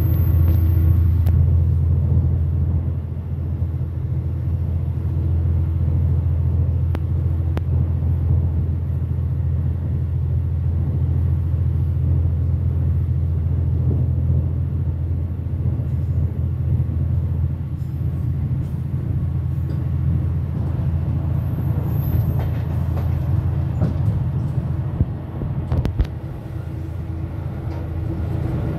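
Diesel locomotive running at speed, heard close up from its outside walkway: a steady low engine drone with wheel and rail noise and a few sharp clicks.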